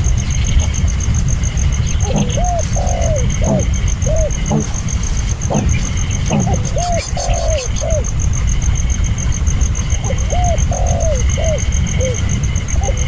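A dove cooing: three phrases of several short rising-and-falling coos, a few seconds apart. Under them runs a steady low rumble, and a high-pitched pulsing tone runs throughout.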